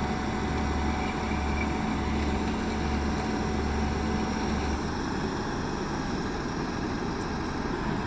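Motor vehicle engine idling over steady street noise; its low hum drops away about five seconds in.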